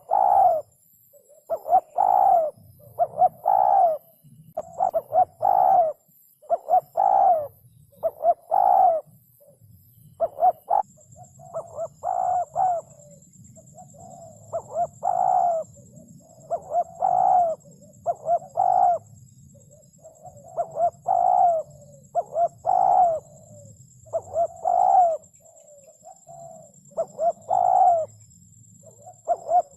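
Spotted dove cooing over and over, its short coos coming in quick groups of two or three with brief pauses between.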